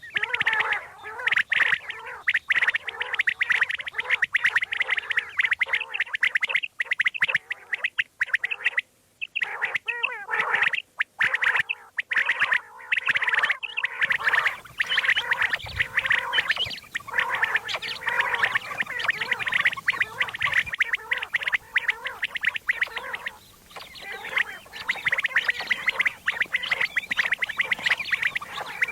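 Quail calling, many calls overlapping in a fast, continuous chatter with a few brief breaks.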